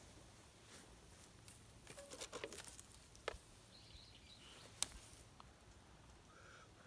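Quiet handling noises: a short patter of light clicks and scrapes about two seconds in, then two separate sharp ticks.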